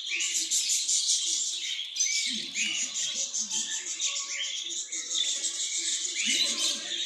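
A flock of small pet birds chirping and chattering, with many short calls overlapping continuously.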